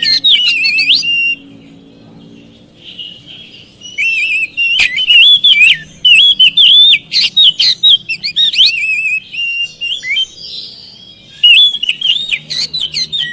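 Oriental magpie-robin singing loud, rapid whistled phrases that slide up and down. The song comes in three bursts with short lulls between.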